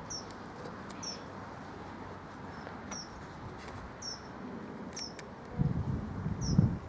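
Outdoor lull: a short, high, falling chirp call repeated roughly once a second, with low gusts of wind buffeting the microphone from about five and a half seconds in.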